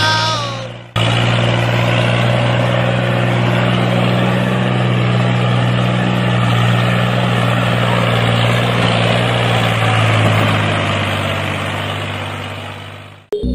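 Engine running steadily at idle with a low, even hum, fading out near the end.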